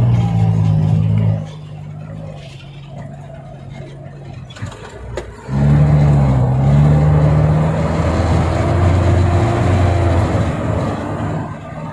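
Car engine heard from inside the cabin while driving: it pulls loudly, eases off about a second in, and picks up loudly again at about five and a half seconds.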